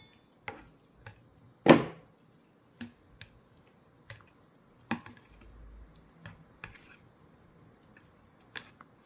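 Eating utensils clinking and knocking against a pot or bowl of ramen in a dozen or so separate short strokes, the loudest about two seconds in.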